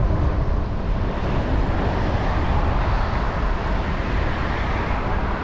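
Wind rumbling and hissing over a GoPro Hero 9's microphone while riding an electric bike, steady and loud throughout.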